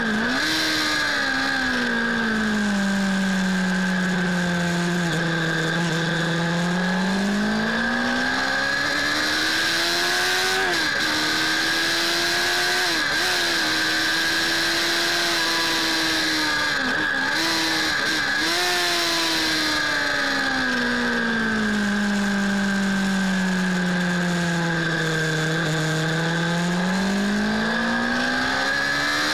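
Suzuki Bandit S 600's inline-four engine on track, heard from the handlebars. Its note drops slowly for several seconds as the rider eases off, then climbs back as he accelerates, and this happens twice. In between the note stays high with a few brief dips, and a steady high whine and rushing air run underneath.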